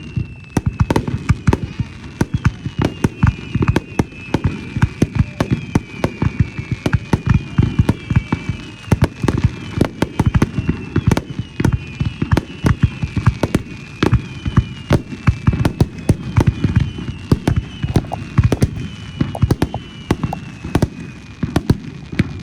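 A rapid fireworks barrage: many shell bursts bang in quick, irregular succession, with repeated high whistling tones that slide down in pitch.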